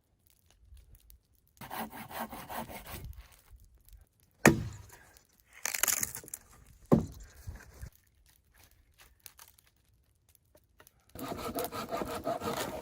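Wood being cut with a hand saw in rasping stretches, with a couple of sharp knocks in between and a steady run of saw strokes near the end.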